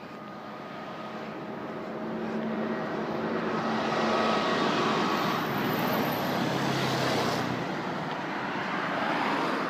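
Road traffic passing close by on a busy road: vehicle engine and tyre noise swell to their loudest around the middle and then fade.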